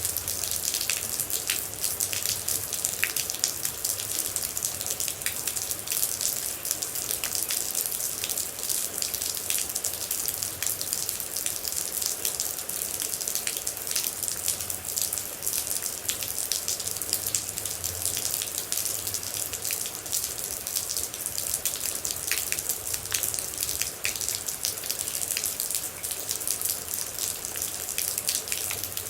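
Steady rain: an even hiss of rainfall with many close, distinct drops ticking onto a surface.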